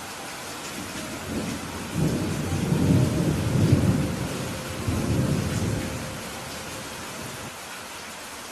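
Steady rain with a long roll of thunder that builds about a second and a half in, is loudest around the middle, and dies away a few seconds later.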